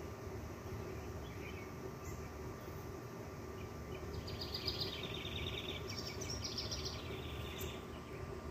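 A songbird singing fast trills, stepping between several pitches, about halfway through, over a steady outdoor background hiss.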